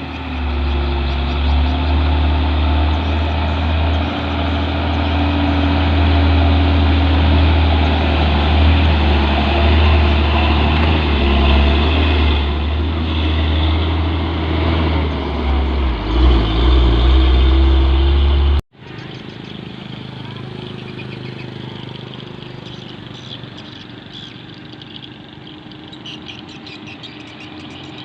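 Heavy diesel truck engine running close by, a deep steady rumble whose pitch wavers slightly. About two-thirds of the way through it cuts off abruptly, leaving quieter background noise.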